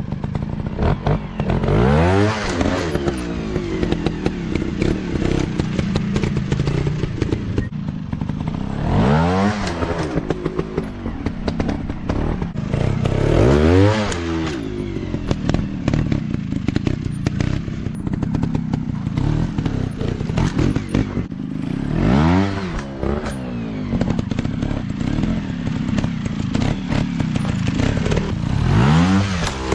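150 cc dirt bike engines running and revving hard, each rev rising and then falling in pitch, about five times, with clattering and thuds between.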